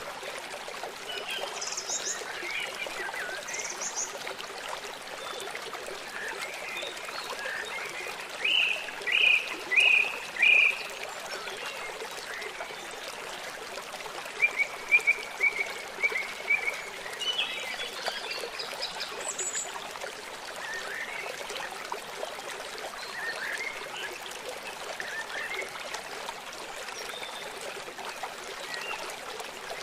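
Small songbirds chirping and calling over the steady rush of a forest stream. The loudest calls are a run of four short notes about nine seconds in, and a quick trill follows a few seconds later.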